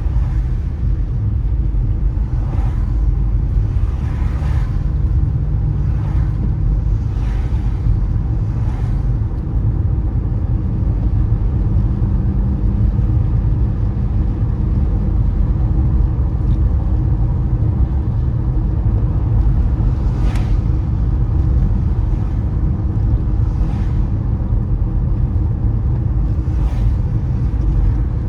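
A car driving on a wet road in the rain: a steady low rumble of engine and tyres, with short hissing swishes about every second and a half for the first third and a few more near the end.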